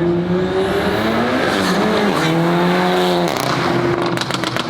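A modified Volkswagen's engine under hard throttle: the note rises, dips briefly, holds high, then cuts off about three seconds in. A quick string of sharp pops follows near the end.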